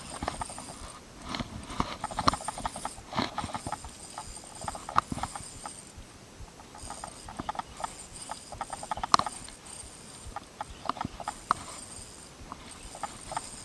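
Irregular clicks and knocks from a fishing reel and rod as a large barramundi is reeled in during the fight.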